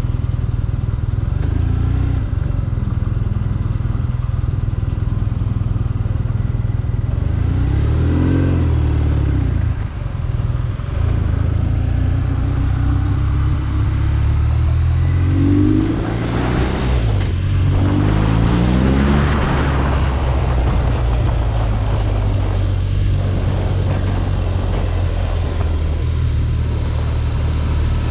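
BMW R nineT Urban G/S air/oil-cooled boxer-twin engine running on the move, revving up and easing off a few times, about eight seconds in and again between roughly fifteen and nineteen seconds. A heavy low rumble lies under it all through.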